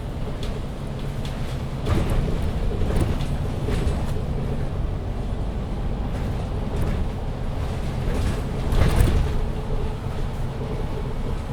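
Onboard running noise of a MAN Lion's City 19C EfficientHybrid diesel-hybrid articulated city bus: a steady engine and road rumble on the move. Several short knocks and rattles come through it, the loudest about nine seconds in.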